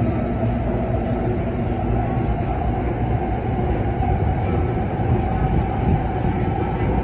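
Kinki Sharyo–Kawasaki electric multiple unit running at speed, heard from inside the car: a steady rumble of wheels on track with a faint steady tone above it.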